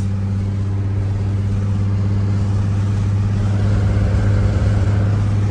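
Nissan 350Z Nismo's 3.5-litre V6 running steadily at an even pace through its Nismo exhaust with a Tomei single-exit axle-back, with a deep, steady drone and tyre noise underneath.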